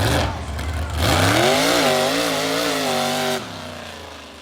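Mega truck's engine revving hard: the pitch climbs about a second in, wavers up and down with the throttle, then cuts off suddenly near the end.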